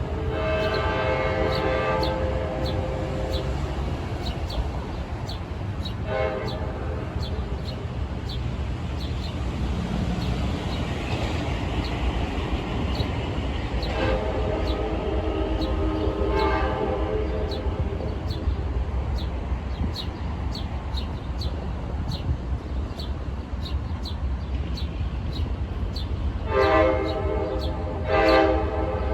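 Train horn sounding several blasts over the steady low rumble of a passing train: a long blast at the start, a short one about six seconds in, another long one midway, and two short ones near the end.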